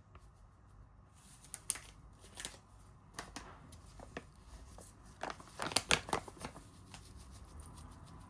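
Small clicks, taps and rustles of objects being handled, with a quick cluster of louder clicks a little after the middle.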